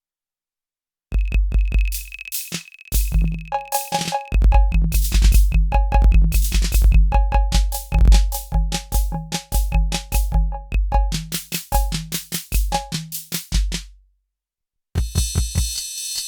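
Nord Drum 3P synthesized drum kit playing a simple rhythm pattern of deep kick hits, crisp ticks and pitched percussion hits. It starts about a second in, stops near the end, and a different-sounding preset kit starts playing about a second later.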